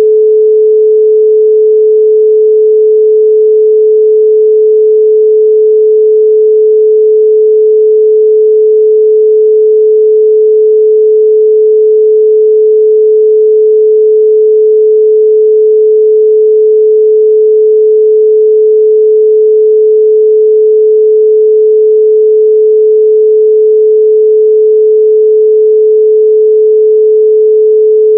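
A loud, steady 432 Hz pure sine tone, one unchanging pitch with no overtones.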